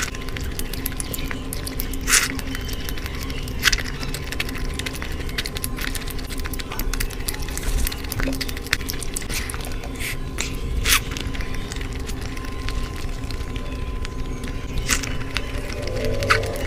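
Close-miked eating of chicken curry: wet squishing chewing sounds with a few sharp lip smacks scattered through, over a steady faint hum.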